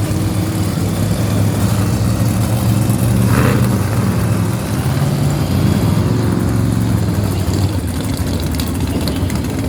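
Monster truck engines running at idle: a loud, steady low engine note that shifts slightly in pitch.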